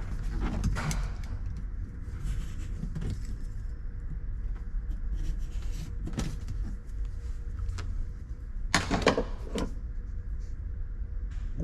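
Scattered knocks and clicks of hands working on a car's interior, trim and panels being handled, over a steady low rumble. A quick run of louder knocks comes about nine seconds in.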